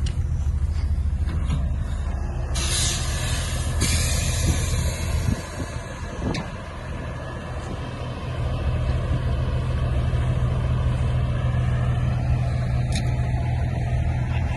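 Diesel semi-truck engine running with a steady low rumble; about two and a half seconds in, a loud hiss of air brakes releasing lasts over a second and trails off, then the engine note shifts and carries on steadily.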